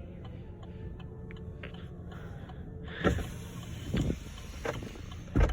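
2019 Chevrolet Equinox's 1.5-litre four-cylinder idling, heard from inside the cabin as a steady low hum, with faint ticks of the hazard-light flasher. A few sharper knocks come from about three seconds in.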